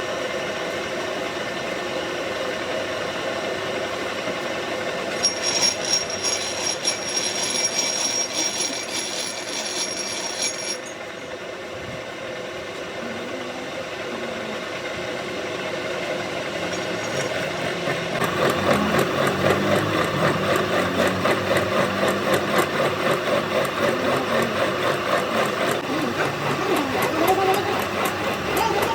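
Workshop machinery running with a steady motor hum. A high ringing whine rides on top from about five to eleven seconds in. From about eighteen seconds in, a louder, fast, even clatter takes over.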